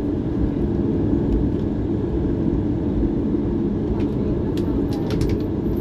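Steady low rumble of a Boeing 737's jet engines heard inside the cabin, with a few light clicks about four to five seconds in.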